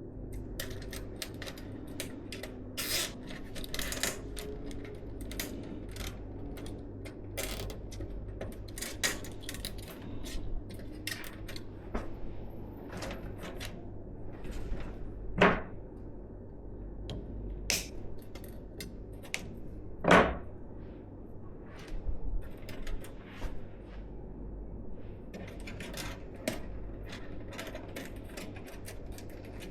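Small clicks, taps and light metallic knocks of PC parts and hardware being handled during assembly, with two sharper knocks about 15 and 20 seconds in.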